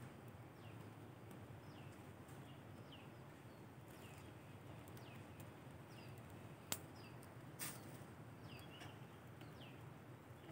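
Quiet outdoor ambience with a bird repeating short, high, falling chirps every half second or so, and two sharp clicks about two-thirds of the way through.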